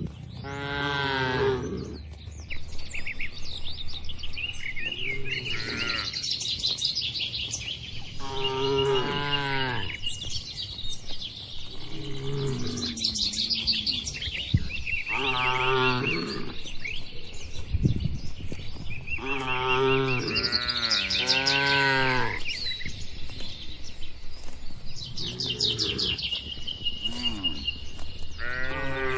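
Cattle mooing repeatedly, with a long, pitched moo every few seconds, some louder and some shorter. Small birds chirp in the gaps between the moos.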